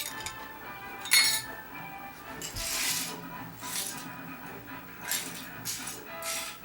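Several light clinks and clatters, as of small toy cars hitting and tumbling, over steady background music.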